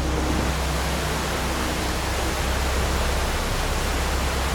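Floodwater rushing in a steady, unbroken noise, with a strong low rumble underneath.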